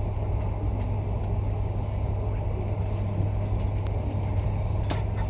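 Steady low rumble of a moving vehicle, with a single sharp click near the end.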